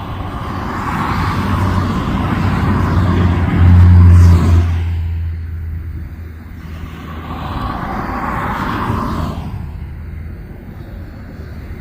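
Deep engine rumble with a low steady drone, swelling and fading in waves, loudest about four seconds in.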